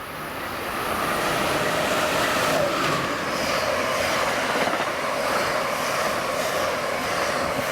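Amtrak Northeast Regional passenger train passing at speed on the nearest track, headed by ACS-64 electric locomotive No. 600, the David L. Gunn unit: a steady loud rush of wheels on rail with a faint whine running through it.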